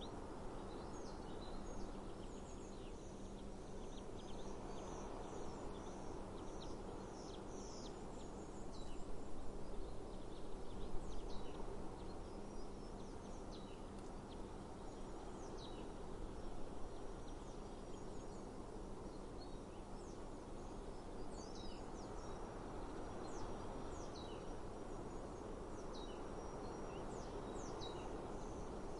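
Small birds chirping with short, high calls again and again over a steady outdoor background hiss. A faint low steady hum underneath stops a little over three quarters of the way through.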